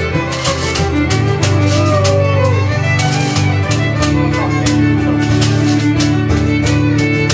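Live folk band playing an instrumental break, with a fiddle carrying the tune over strummed guitar and a steady beat.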